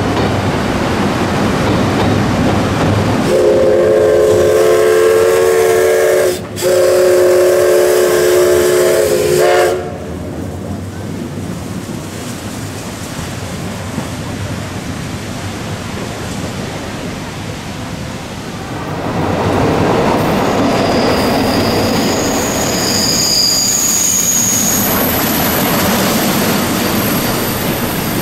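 A train rumbling along the rails, then a train horn sounding two long chord blasts with a brief gap between them. After that the running noise of a train returns, louder from about two-thirds of the way in, with a high wheel squeal near the end.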